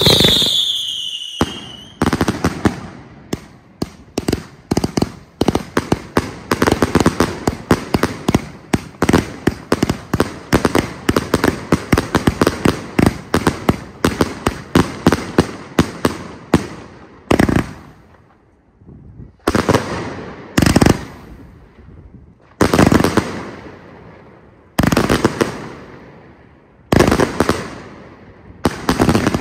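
A consumer fireworks cake (multi-shot battery) going off. It opens with a brief falling whistle, then fires a long rapid run of bangs. For the last dozen seconds it slows to single loud bangs about two seconds apart, each ringing out before the next.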